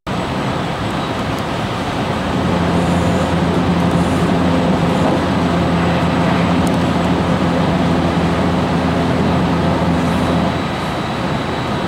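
Running noise of a JR Kobe Line special rapid electric train heard from inside the passenger car: a steady rumble with a steady hum from about two seconds in. The hum stops and the noise drops a little near the end.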